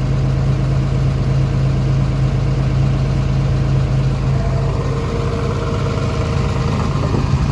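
Komatsu PC210LC-10 excavator's diesel engine idling with a steady low hum. A fainter, higher steady tone joins for a couple of seconds midway.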